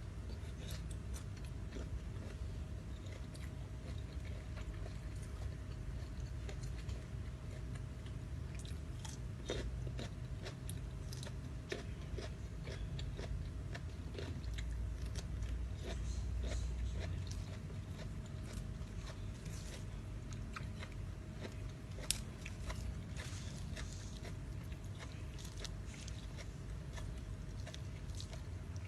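A person chewing and biting crispy squid and rice noodles close to the microphone, with many small irregular crunchy clicks.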